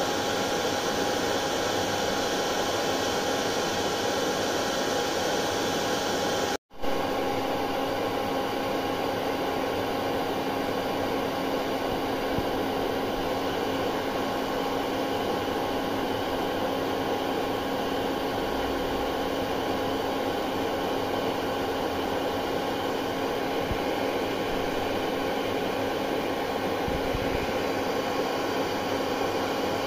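Hair dryer running steadily: a constant rush of air with a steady motor hum. The sound drops out for a split second about six and a half seconds in, then resumes unchanged.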